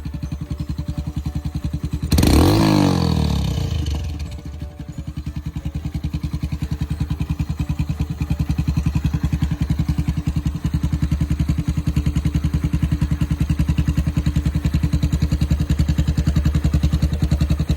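Turbocharged Honda Grom (MSX125) single-cylinder 125 cc engine with a straight-pipe exhaust, idling with an even pulsing beat. About two seconds in, it is revved once, the pitch rising sharply and falling back over about two seconds before it settles into idle again.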